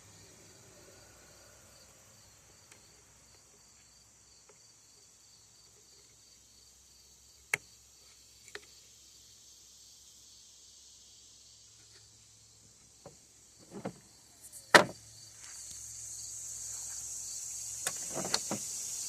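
Scattered clicks and knocks of small parts and tools being handled during chainsaw repair, the loudest about 15 seconds in, with a few more near the end. Crickets chirp in the background, growing louder over the last few seconds.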